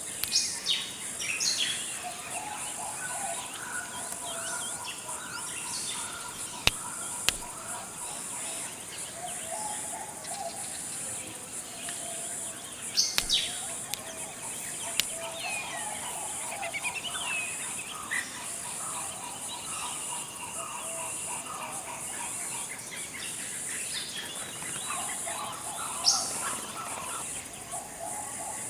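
Forest ambience: a steady high-pitched insect hum, with many birds chirping and calling over it on and off, and a few sharp clicks.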